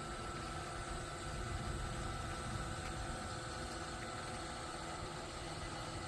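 Electric lift drive of a pop-up truck camper running steadily as the camper roof lowers: a constant motor whine over a low rumble.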